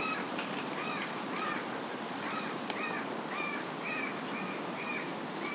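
A bird chirping, short curved calls repeated about twice a second over a steady background hiss.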